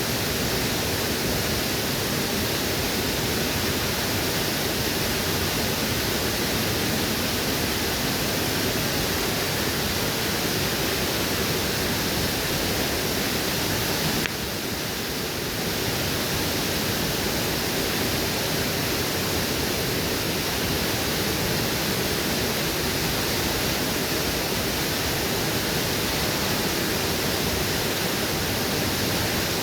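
Waterfall rushing steadily, dipping slightly in level for about a second halfway through.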